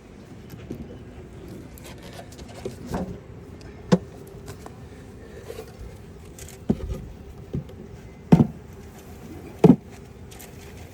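A handful of sharp knocks and scrapes from hive equipment being handled, about five, spaced a second or two apart. Under them runs a faint steady hum of honeybees.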